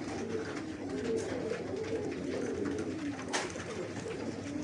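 A flock of domestic pigeons cooing together, many low, overlapping coos at once, with one sharp click a little past the middle.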